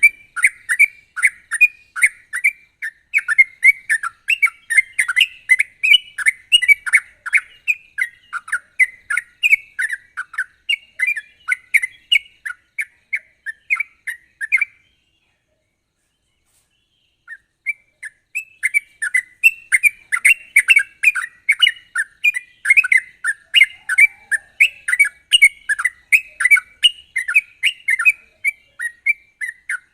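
Yellow-vented bulbul (trucuk) singing a fast, unbroken run of bubbly chirping notes, the rapid 'ropel' style of a bird in full song. The song breaks off for about two and a half seconds midway, then starts again just as fast.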